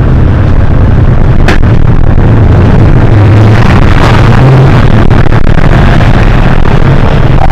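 A Hino HS8JRVL city bus's diesel engine running under way. It makes a loud, steady low drone that shifts a little in pitch, and there is a sharp click about a second and a half in.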